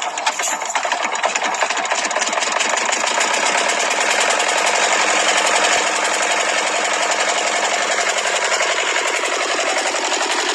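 Diesel tractor engine running with a fast, even clatter, growing louder over the first few seconds and then holding steady.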